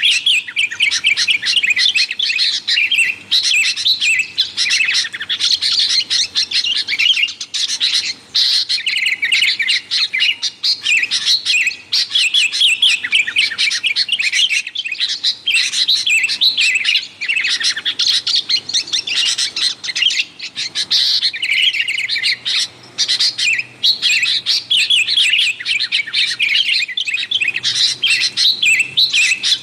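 Sooty-headed bulbuls (kutilang) calling busily and without pause: a dense stream of quick chirping and chattering notes, mostly high-pitched, with many calls overlapping.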